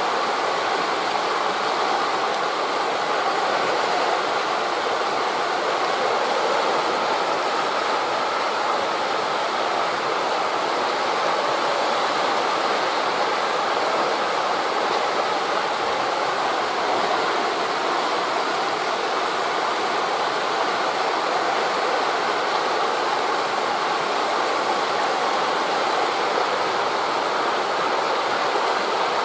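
Steady rushing of wind through forest leaves blended with surf on a beach, an even sound with no separate gusts or wave crashes standing out.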